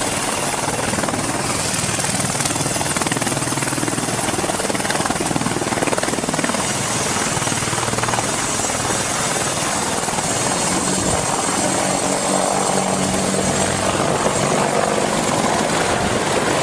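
AH-64 Apache attack helicopter's twin turboshaft engines and rotor running with a steady drone.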